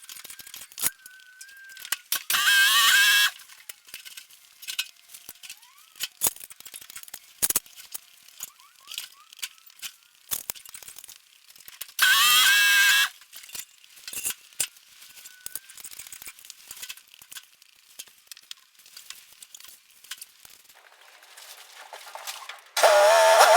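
Irregular clicks and rattles of a come-along and straps being worked on the car body, broken by two short loud high squeals and a longer wavering squeal starting near the end.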